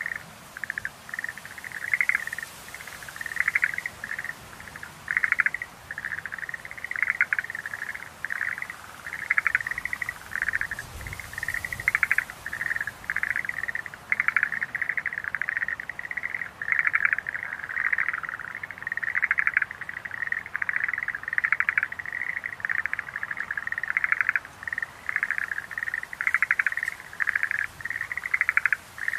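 Schlegel's green tree frogs (Rhacophorus schlegelii) calling in a chorus: short trilled calls repeated one after another, often overlapping.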